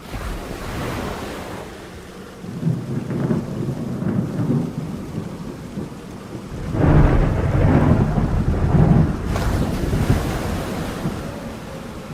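Rain falling with rolling thunder. The low rumble swells about three seconds in and is loudest around seven to nine seconds in.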